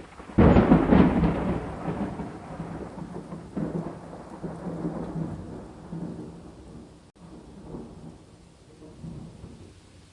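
A thunderclap breaks sharply about half a second in, then rolls on as a long rumble that swells again several times while slowly fading. Steady rain falls underneath.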